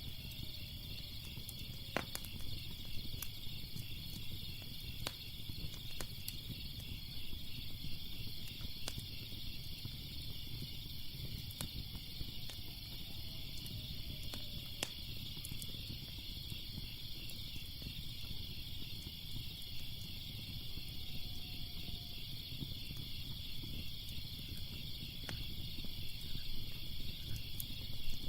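Crackling fire with sharp, irregular pops every second or so, over a low steady rumble and a constant high, finely pulsing chorus of night insects.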